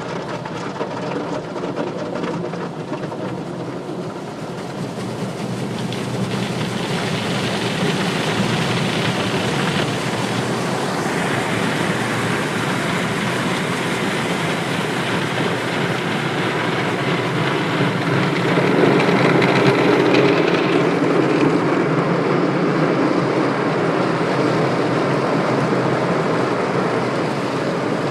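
Car wash running: a steady rushing of water spray and machinery that grows louder over the first several seconds, changes character about eleven seconds in, and is loudest for a few seconds near twenty seconds.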